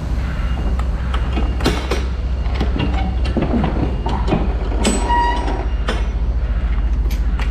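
Steel container doors being worked open: irregular metal clanks and knocks from the locking bars and door, with a brief squeal about five seconds in, over the steady hum of an idling diesel engine.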